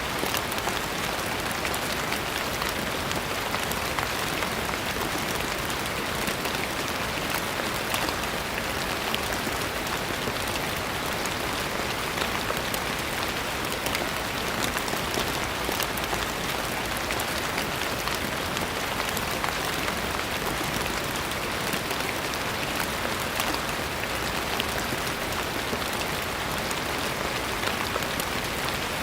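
Steady, even rain falling on a surface, a dense patter of small drops with no let-up.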